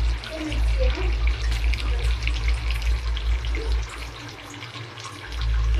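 Water running and splashing, as from a tap into a sink, over a steady low hum that cuts out briefly near the end.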